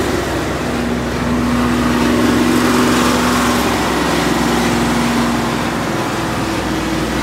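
Heavy truck engine running steadily at a constant level, with a held tone from about half a second in that fades out over the last couple of seconds.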